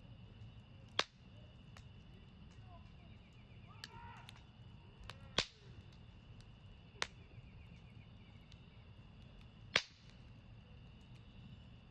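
Wood burning in a campfire, crackling, with four sharp pops about 1, 5, 7 and 10 seconds in and a few fainter ticks, over a low steady rumble.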